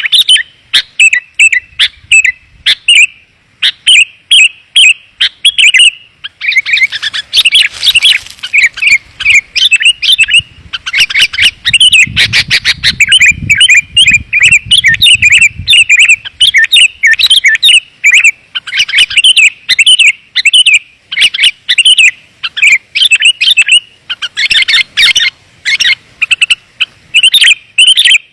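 Sooty-headed bulbuls (kutilang) calling: loud, quick, bubbly chirping notes in tight phrases with short pauses, thickening for several seconds into overlapping calls. This is a lure call (suara pikat) used to draw wild bulbuls in.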